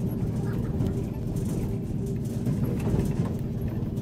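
Train running: a steady low rumble with light clatter.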